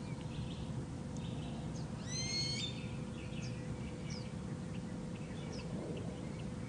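Birds calling: scattered faint high chirps and one clearer, rising call about two seconds in, over a low steady rumble.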